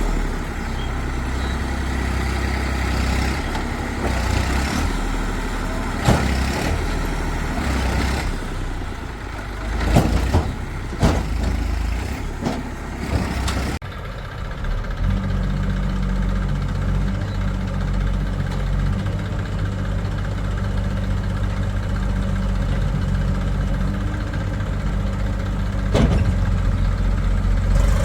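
Diesel engines of a backhoe loader and tractors running, with several sharp knocks or clangs in the first half. About halfway through the sound changes abruptly to a steadier, low engine idle.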